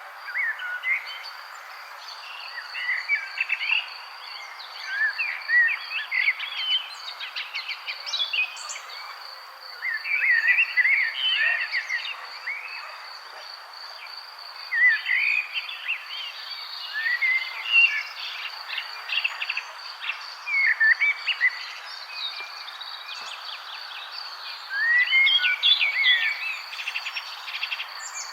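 Several songbirds chirping in quick clustered phrases every few seconds, over a steady high insect trill and a constant soft background hiss.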